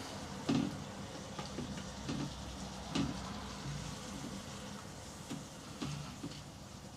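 Pan of chicken and vegetables on low heat, sizzling faintly and steadily as the last of the water steams off, with a few scattered soft clicks and knocks.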